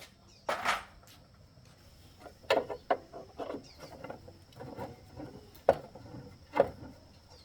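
Hand tools and metal parts being handled during repair work: a short rattling clatter, then a series of scattered knocks and clinks, the loudest two near the end.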